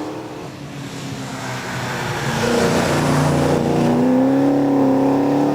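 Race car engine accelerating hard on a hillclimb course. It is faint about half a second in, then grows steadily louder from about two seconds in as the car approaches, and its pitch climbs slowly.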